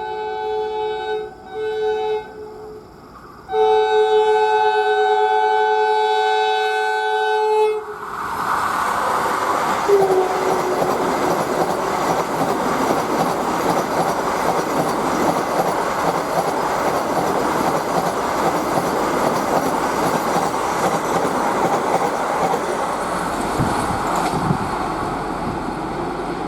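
Express train's horn sounding in a few short blasts, then one long blast of about four seconds. The train then passes at speed with a steady, loud rushing rumble of wheels on rails.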